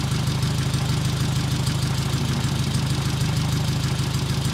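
Renault Dauphine Gordini's rear-mounted four-cylinder engine idling steadily with an even beat.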